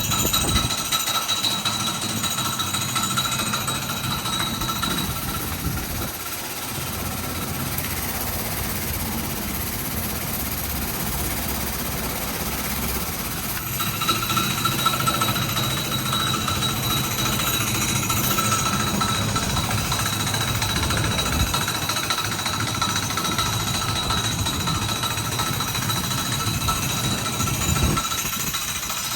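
Self-serve car wash high-pressure wand spraying water onto a car body in a steady hiss, with a thin whine held under it.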